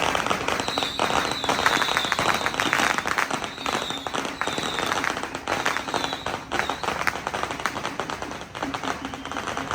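A string of firecrackers going off in rapid, dense crackling. Short falling whistle-like tones repeat over it through the first two-thirds.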